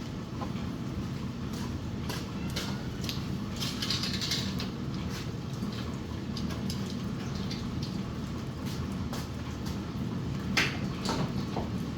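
A steady low hum with scattered light clicks and taps, and one sharper knock near the end.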